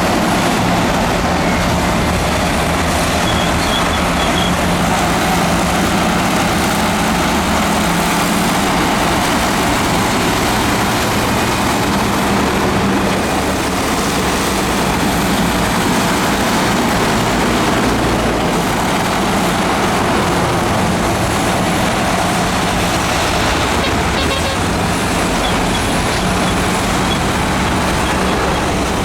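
Heavy earthmoving machinery's diesel engine running steadily at a constant pitch.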